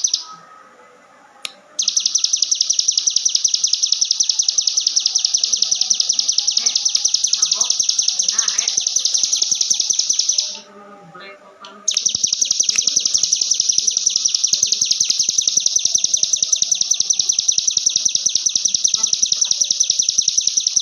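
A ciblek gunung (mountain prinia) singing its 'ngebren' song: long, very fast rattling trills of evenly repeated high notes, in two long bursts with a short pause between them.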